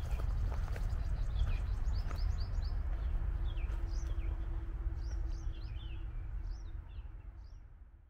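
Birds chirping, many short quick calls, over a steady low rumble of outdoor background noise, with a faint steady hum joining about three seconds in. The sound fades out over the last second and a half.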